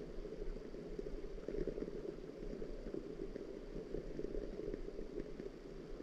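Steady, muffled rain sound: a dense, even crackle that sits low, with a faint low hum beneath.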